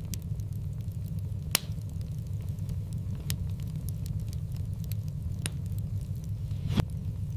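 Wood fire burning in a fireplace: a steady low rumble of flames with scattered sharp crackles and pops, the loudest about a second and a half in and near the end.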